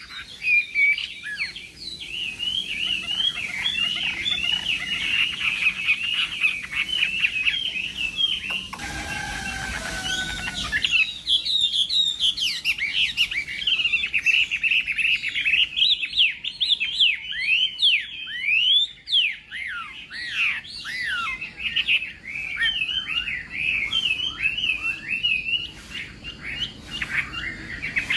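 Chinese hwamei singing a long, varied song of rapid whistled notes that sweep up and down, broken briefly about nine seconds in by a short rushing noise.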